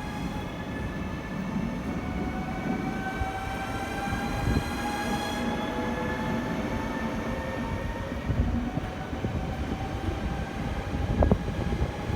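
Electric train pulling away, its motors whining in several tones that rise steadily in pitch as it gathers speed, over a low rumble of wheels on track. A sharp click about eleven seconds in.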